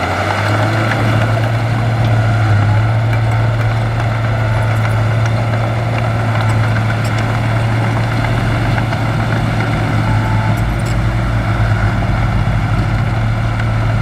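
Heavy diesel engine running steadily, its pitch stepping up slightly about half a second in and then holding even.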